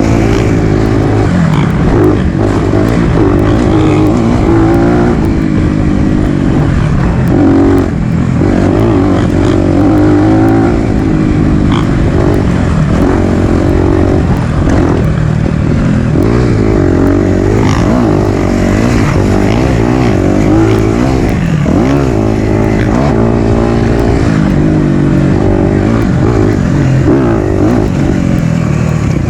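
Four-stroke dirt bike engine riding a trail, revving up and down over and over as the throttle opens and closes, with scattered sharp knocks.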